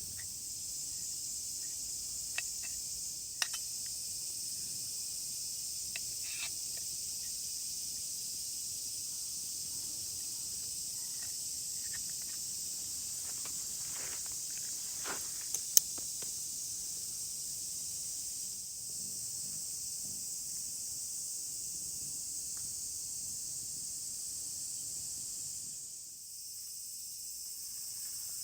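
Steady high-pitched insect drone, with a few sharp clicks scattered through it, the loudest about sixteen seconds in.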